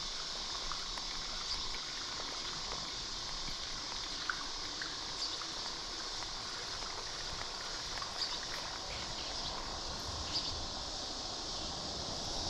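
A steady chorus of chirping insects over the even rush of flowing water, with a few faint ticks here and there.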